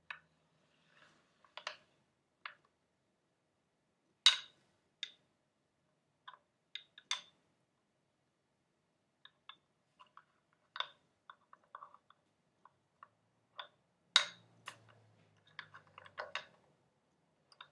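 Close-up ASMR tapping and clicking on objects: irregular sharp clicks at an uneven pace, the loudest about four seconds in and again near fourteen seconds, with a quick cluster of softer clicks near the end.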